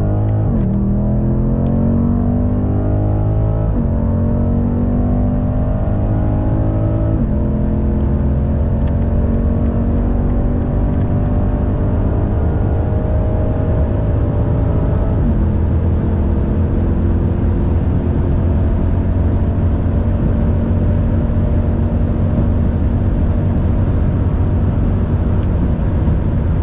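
BMW M550i's twin-turbo V8 with an aftermarket Remus exhaust under hard acceleration in the high gears. The engine note climbs slowly and drops sharply at about four upshifts, the last about halfway through, then runs at a steady pitch at high speed.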